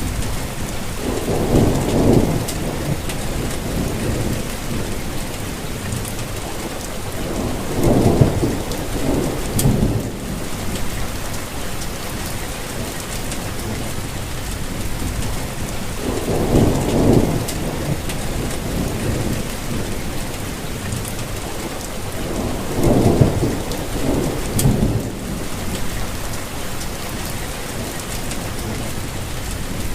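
Steady rain falling, with scattered drop ticks and a low rumble that swells and fades four times, each lasting two to three seconds, with another starting near the end.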